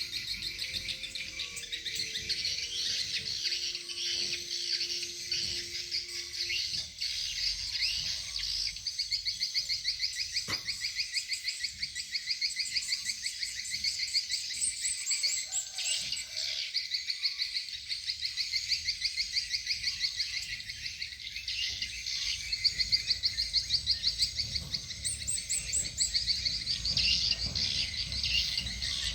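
Swiftlet lure calls played through tweeter speakers on a swiftlet house: two different recorded calling sounds overlap in a dense, fast, rhythmic high-pitched chirping twitter.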